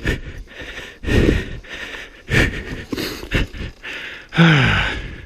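A man breathing hard in separate gasps after exertion, ending about four seconds in with a loud sigh that falls in pitch.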